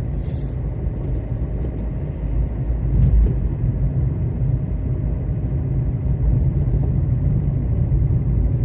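Car engine idling, heard from inside the cabin as a steady low rumble, with a brief knock about three seconds in.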